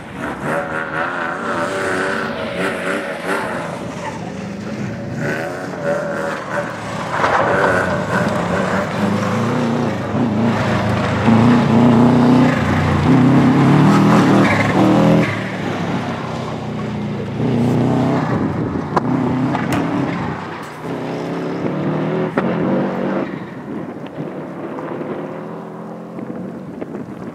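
Subaru Impreza's flat-four boxer engine revving hard, the revs rising and falling again and again with acceleration, gear changes and lift-offs as the car is thrown round the course. It is loudest as the car passes close about halfway through, then fades as it drives away.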